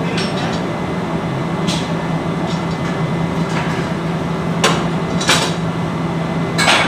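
Four sharp metallic knocks, irregularly spaced and louder near the end, from hand tools striking metal parts while a turbocharger is being overhauled. A steady low machine hum runs underneath.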